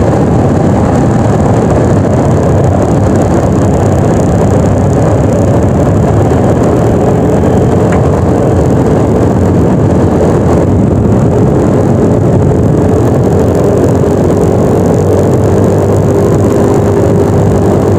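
Scooter on the move: a steady engine drone under heavy, constant wind rush on the microphone, with a faint steady tone joining about a third of the way in.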